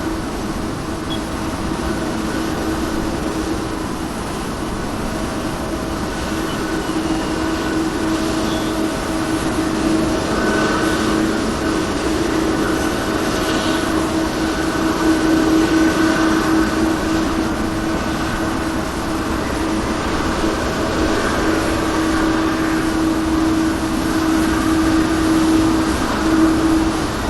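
Pratt & Whitney turbofan engines of a Boeing 777-200ER running steadily after start, a loud, constant hum with a steady low tone over a rushing noise that swells and eases slightly.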